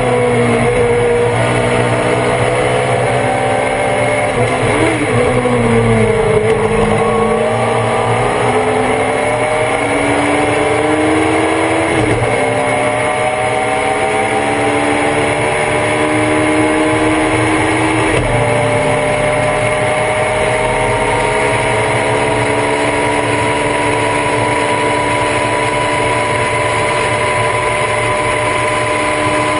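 On-board sound of the #68 Thunder Roadster race car's engine under racing load. It slows with a few downshift blips about four to five seconds in, then pulls hard with rising revs, upshifting about twelve and eighteen seconds in, and climbs slowly in pitch through the rest.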